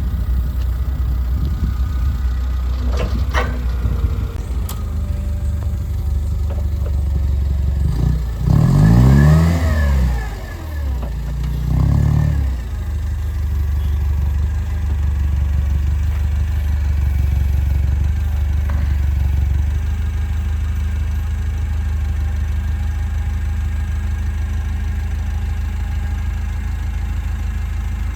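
Vehicle engine running steadily, with a louder surge about eight seconds in where the engine pitch climbs and then drops, and a shorter surge about twelve seconds in.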